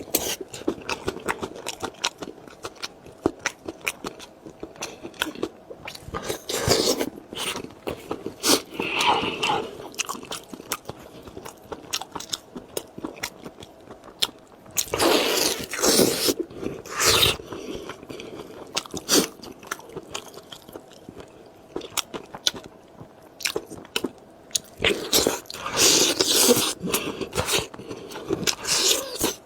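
Close-miked biting and chewing of spicy lamb chops: crunchy bites with many short clicks, and louder bursts of crunching several times.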